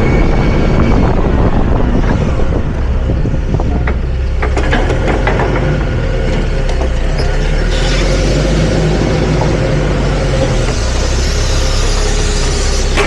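Hyster H100FT forklift's engine running steadily, with a few clicks and rattles about four to five seconds in.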